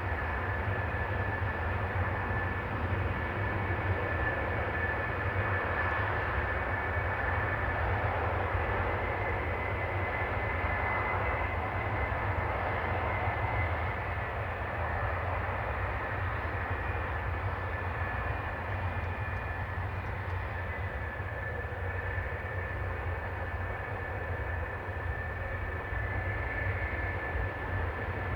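Military jet engines running steadily with a constant high whine over a low rumble, with no pass-by rise or fall.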